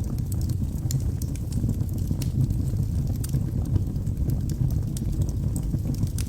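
Wood logs burning in a fireplace: a steady low rumble of the flames with frequent small crackles and pops.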